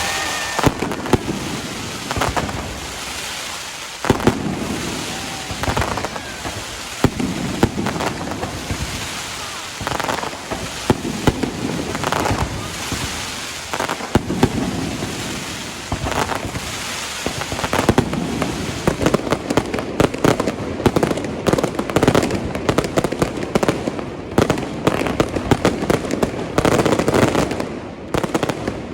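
Aerial fireworks display: shells bursting one after another with booms and crackle. The bursts come thicker and faster in the second half.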